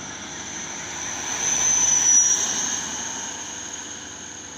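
Truck passing by on the road: tyre and engine noise swells to a peak about two seconds in, then fades away, with a high whine over it.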